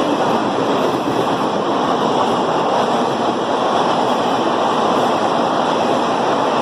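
Express train running past at speed: a loud, steady rushing rumble of wheels on rails.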